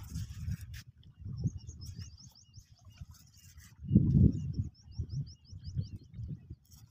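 A bird calling in two quick runs of short, high, falling chirps, over a low, gusting rumble of wind on the microphone that is loudest about four seconds in.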